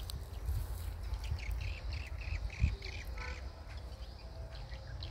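Birds calling: a quick run of short calls starting about a second in, then one harsher call around three seconds in, over a steady low rumble of wind on the microphone.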